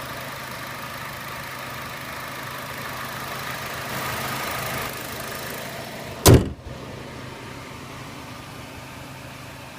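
Chevrolet Sonic's four-cylinder engine idling steadily, then a single loud slam about six seconds in, after which the engine sounds more muffled and quieter.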